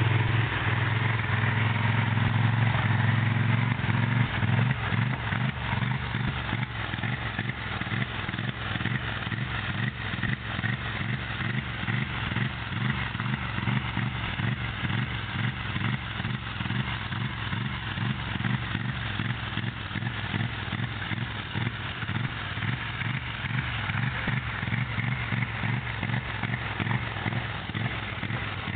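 2009 Polaris 850 XP engine running steadily for about four seconds, then stuttering: the engine note breaks up into a rapid, regular pulsing, cutting out and catching a few times a second. This is the severe stutter or misfire, with engine cut-out and a check-engine light, that the owner is trying to diagnose.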